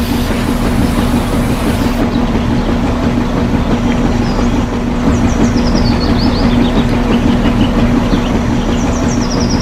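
A small electric motor and gears running steadily with a constant hum, then cutting off suddenly at the very end.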